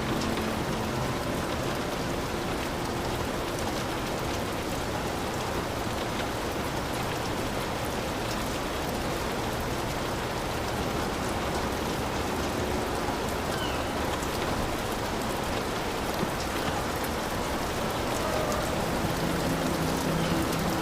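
Heavy rain falling steadily on a hut, a dense, even downpour with no breaks.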